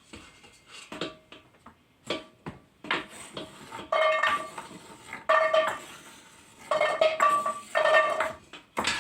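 Cut carrots dropping into a metal cooking pot: a few single knocks at first, then several spells of clattering pieces that set the pot ringing.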